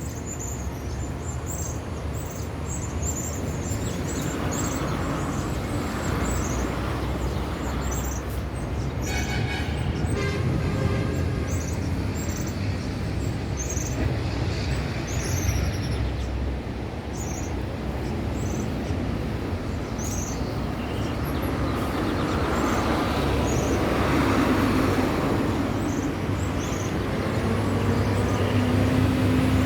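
Backyard birds giving short, high chirps again and again over a steady low rumble.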